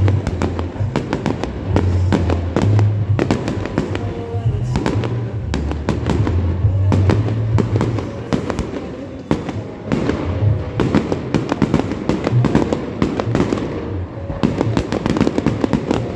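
Fireworks display going off, with rapid bangs and crackles throughout, and Christmas music playing along with it.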